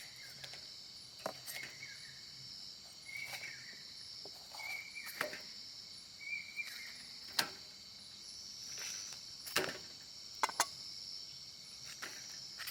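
Crickets trilling steadily, faint, with about eight scattered sharp clicks and a few short higher chirps over them.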